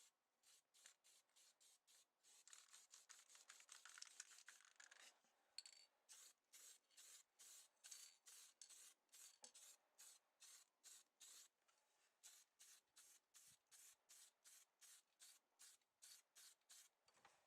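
Faint, rapid back-and-forth rubbing strokes by hand on a surface, about three a second, with one longer stretch of continuous rubbing a few seconds in, as in sanding or scrubbing a car panel.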